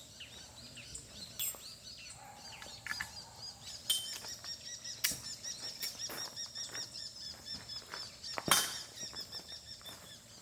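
Small songbirds chirping in fast repeated high notes. A few sharp clicks cut through, the loudest about eight and a half seconds in.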